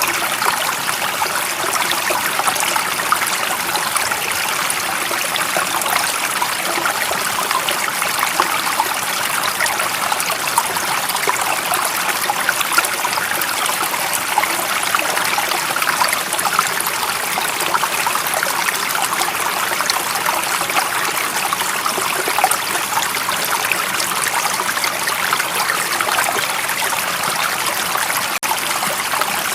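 Running stream water flowing steadily, a dense babble of small splashes and trickles, with a momentary dip near the end.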